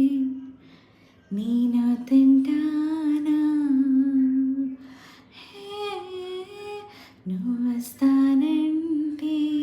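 A woman singing wordless long held notes, humming-like, with no accompaniment. The notes are separated by two short pauses.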